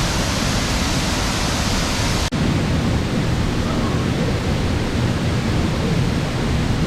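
Rushing waterfall: a loud, steady roar of falling water. It breaks off for an instant about two seconds in and comes back a little duller.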